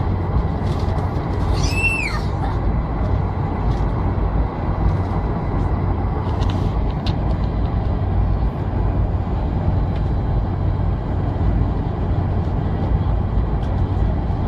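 Steady cabin noise of a Boeing 747 on departure: engine and airflow rumble with a low hum. About two seconds in comes one brief high-pitched squeak that rises and falls.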